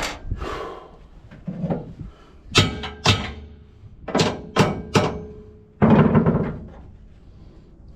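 Steel fifth wheel hitch parts knocking and clanking against the truck-bed mounting rails as they are forced into place: a series of sharp knocks, then a heavier, longer thunk about six seconds in.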